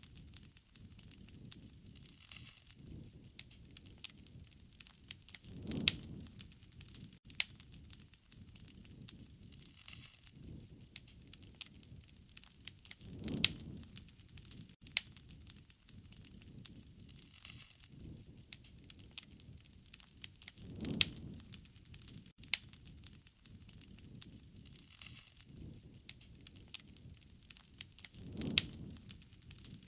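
Wood bonfire burning, with a steady run of sharp crackles and pops from the burning wood and a soft low rush of flame that swells and fades every several seconds.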